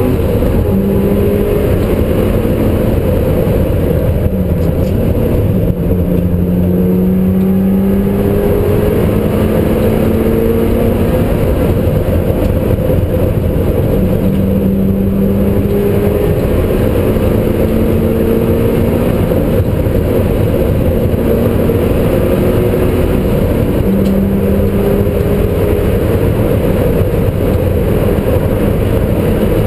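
Mitsubishi Lancer Evolution IX's turbocharged four-cylinder engine heard from inside the cabin at racing pace. The engine note climbs in pitch over and over as the car accelerates through the gears, breaking off at each shift, over a constant rumble of road noise.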